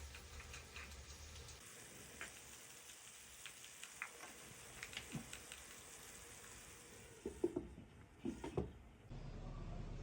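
Light clicks and taps of cooking work, with a few louder knocks from about seven and a half to nine seconds in. About nine seconds in the sound cuts to a steady low rumble.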